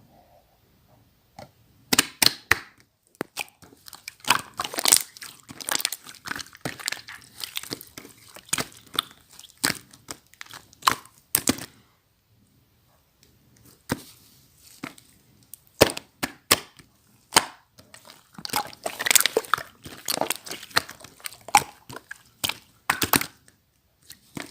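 Slime squeezed and worked by hand, giving rapid crackling clicks and pops in two long spells with a pause of about two seconds in the middle.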